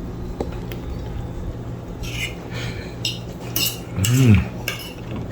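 Metal cutlery scraping and clinking on a plate as egg is served onto the food, in a few short scrapes. About four seconds in there is a brief hummed voice sound, rising then falling.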